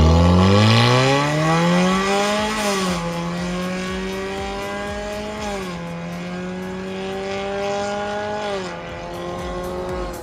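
Hyundai Venue 1.6's four-cylinder engine accelerating through an MS-R valved cat-back exhaust. The exhaust note climbs in pitch, then drops sharply about three seconds in, again near six seconds and near nine seconds, as at upshifts, holding a steady drone between the drops.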